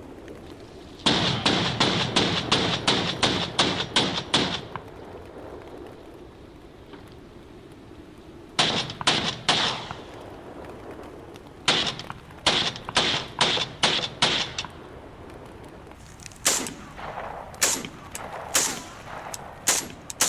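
Gunfire in a firefight: a rapid string of about a dozen shots, then short runs of shots in quick succession, and scattered single shots near the end.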